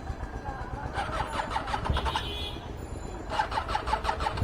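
Street traffic, with vehicle engines running nearby: a steady low rumble and intermittent pulsing mechanical sounds.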